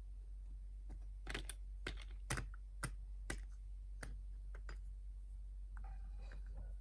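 A series of about a dozen sharp, irregularly spaced clicks, like small hard objects being tapped or handled, over a steady low hum.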